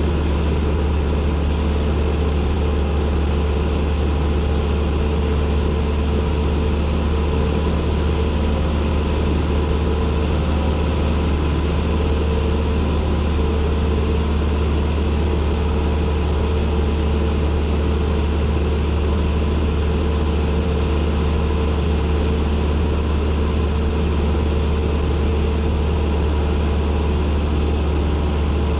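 Cessna 172N's four-cylinder Lycoming engine and propeller running steadily, heard from inside the cockpit as a loud, constant low drone with a steady hum over it.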